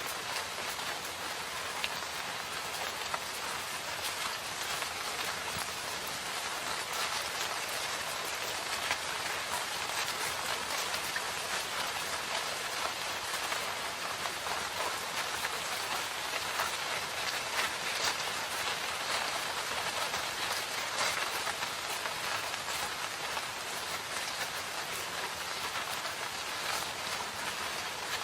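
Steady rain falling in a forest, with a dense patter of individual drops striking leaves and surfaces.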